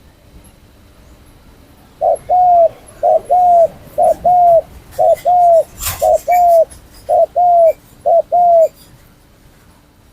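A trained spotted dove cooing: seven two-part coos in a steady run starting about two seconds in, each a short note followed by a longer, arching one. A single sharp click comes midway through the run.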